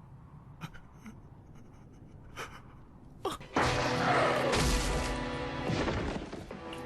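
Anime soundtrack: a few seconds of near-quiet with faint clicks, then a sudden loud hit about three and a half seconds in that swells into dramatic music with a falling sweep, settling into sustained held chords.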